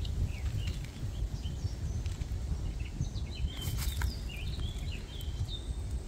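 Small birds chirping, with a cluster of short chirps in the middle, over a steady low rumble on the microphone.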